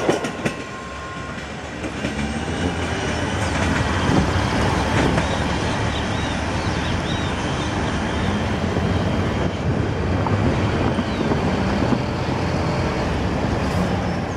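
Diesel-hauled passenger train's coaches rolling away along the track, wheels clattering, over a steady low rumble from the locomotives at its head.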